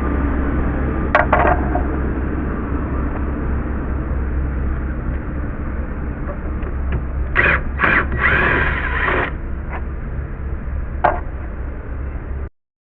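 Hand tools and screws being worked against deck lumber: a few short clicks and knocks, with a brief scraping around the middle, over a steady low hum. The sound cuts off suddenly near the end.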